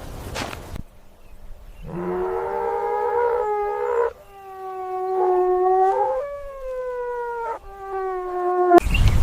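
A dog howling: four long, drawn-out howls one after another with short breaks between, the pitch wavering and sliding a little within each.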